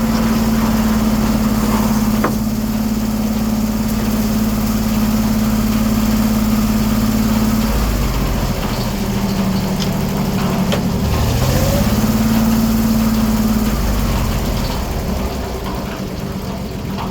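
1907 American sawmill running, its engine and saw steady with a held hum. Around the middle the hum breaks off and the pitch dips and wavers before steadying again, as under changing load.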